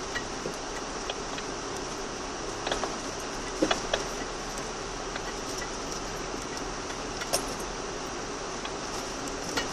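Car driving, heard from inside the cabin: a steady road and engine noise with sharp clinks and rattles of loose things a few times, the loudest cluster a little under four seconds in.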